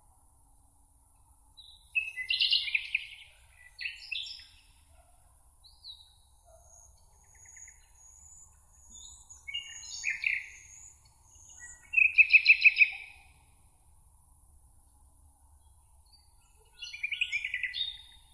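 Songbirds singing in a meadow: short phrases of about a second, each a quick run of repeated notes, come every few seconds, with thin, high, faint notes between them over a steady faint hiss.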